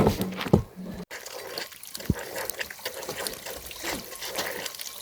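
Water trickling and dripping, with many small drips. A louder sound in the first second stops abruptly.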